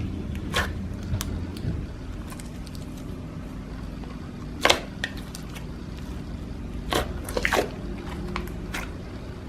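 Slime being pressed and played with by hand, giving a few irregular sharp pops and clicks over a steady low hum. The loudest pop comes about five seconds in, with a quick cluster a couple of seconds later.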